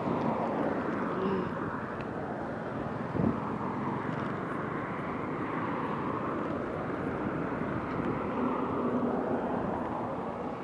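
Busy road traffic: a steady rumble of passing vehicle engines and tyres, with a brief knock about three seconds in.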